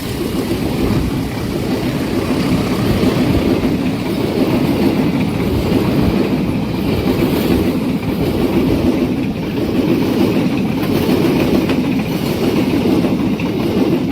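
Train rolling past close by: a steady, loud rumble and clatter of wheels on the rails.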